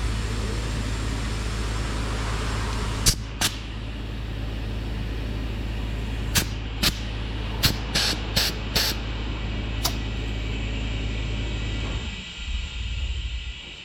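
A loud, steady low machine rumble that stops about twelve seconds in, with about nine sharp clicks or knocks scattered over it.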